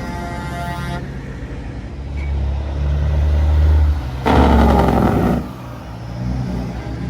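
Large trucks driving slowly past with a low engine rumble, a steady tone that cuts off about a second in, and a loud blast about four seconds in that lasts about a second.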